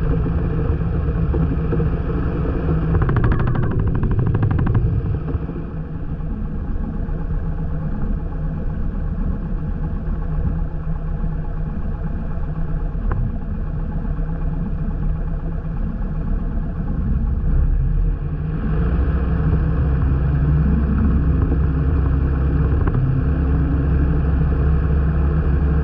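Light airplane's piston engine running on the ground; its power drops about five seconds in and comes back up about eighteen seconds in.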